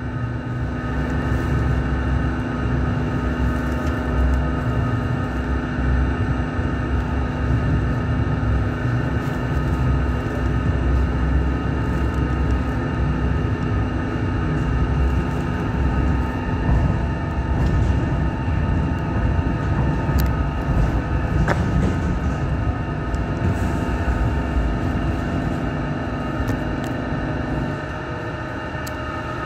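Interior sound of a Hong Kong Light Rail Phase I car: a steady low rumble with several constant hums and whines from the car's equipment.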